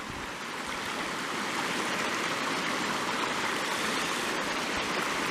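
Mountain headwater stream rushing steadily over rocks: an even, unbroken water noise.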